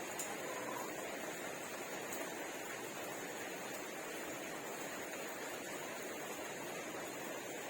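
Steady hiss of background noise at an even level, with a couple of faint clicks about a quarter of a second and two seconds in.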